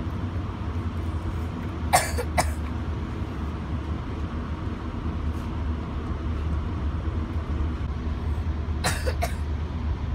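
Steady low rumble of a commuter train car rolling along, heard from inside the passenger cabin. Someone coughs twice about two seconds in, and twice again near the end.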